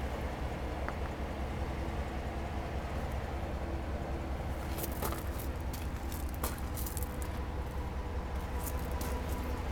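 Steady low rumble of an idling vehicle engine, with a few short clicks about five and six and a half seconds in.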